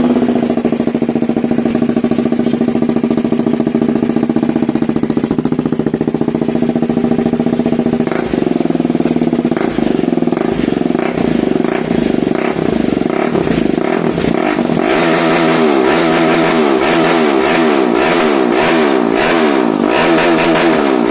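KTM RC 390's single-cylinder engine through an aftermarket SC-Project exhaust, very loud. It idles steadily at first, then for the last third or so the throttle is blipped over and over, the pitch rising and falling about once a second.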